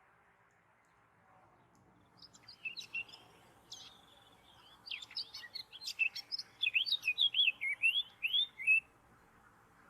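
A small songbird singing: after a quiet start, a varied burst of high chirps and twitters begins about two seconds in and ends in a quick run of short down-slurred notes, about two a second, stopping near the end.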